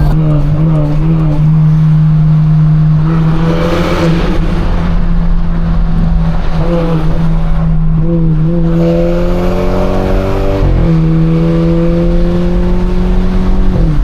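Straight-piped BMW 428i's turbocharged four-cylinder exhaust droning loudly under way. Higher engine tones climb slowly and drop sharply about ten and a half seconds in and again near the end, as at gear changes.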